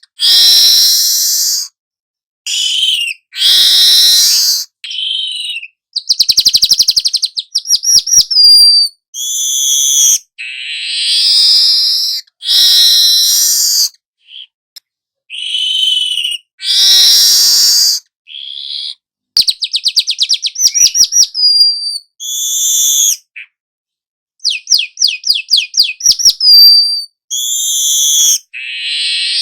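Young manyar (weaver bird) singing: a string of harsh chattering calls, broken three times by bursts of fast ticking trills that each end in a short falling whistle.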